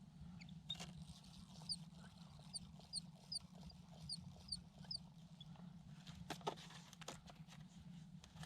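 A small bird calling a quick series of about eight short, high chirps, followed by a few soft knocks.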